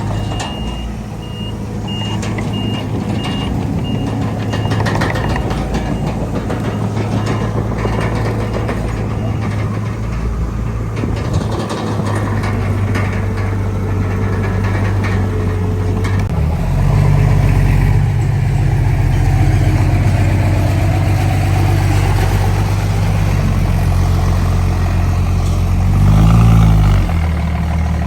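Bulldozer diesel engine working under load, with a rapid reversing alarm beeping through roughly the first ten seconds and some clatter early on. The engine steps up in revs about halfway through and briefly rises and falls near the end.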